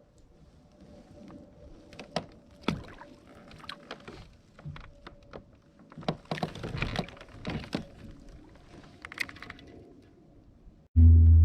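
Scattered knocks, thunks and clatter of gear handled in a kayak, with some watery sloshing between them. Near the end a much louder low, steady rumble starts abruptly.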